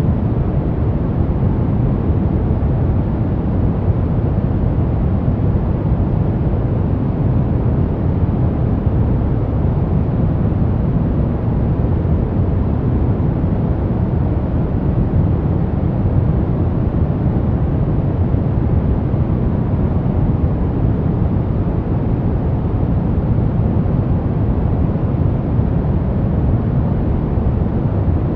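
Steady sleep white noise: an even, unchanging noise with no tones or breaks, weighted toward the low end with little high hiss.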